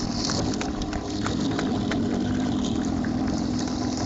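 A stunt motorcycle's engine running at low, slightly wavering revs under steady crowd noise and scattered sharp claps in a large hall.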